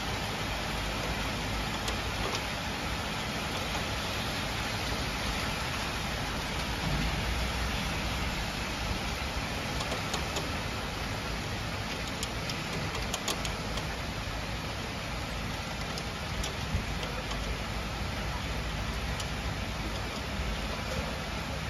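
Heavy summer rain pouring steadily in a thunderstorm, with a low rumble underneath. Sharp ticks of drops hitting something come and go from about ten seconds in.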